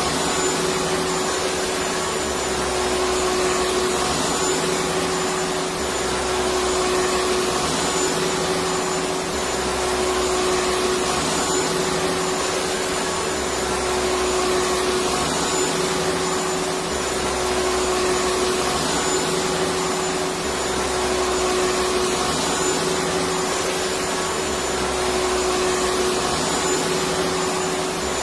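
Vacuum cleaner motor running continuously with a steady hum and dense whooshing noise, gently swelling and easing about every two seconds, used as white noise to lull a baby to sleep.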